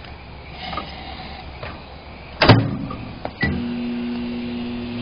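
Microwave oven being started: a loud click, then about a second later another click and a steady low hum as the oven begins running.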